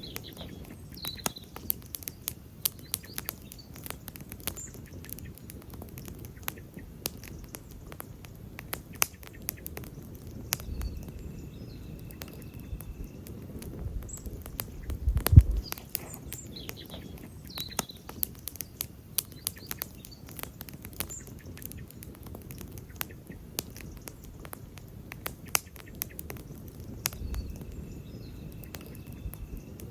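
Wood campfire crackling, with many small sharp snaps and one louder pop about fifteen seconds in. Faint high chirps in the background.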